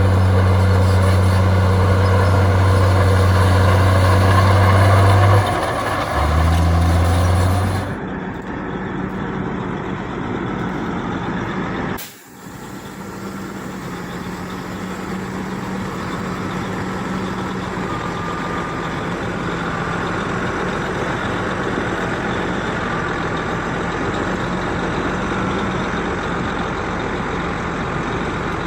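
Heavy diesel earthmoving machinery running: a bulldozer and dump truck at work. A strong steady low engine drone for the first seconds changes abruptly about eight seconds in, the sound drops out for a moment near twelve seconds, and a steadier engine drone follows.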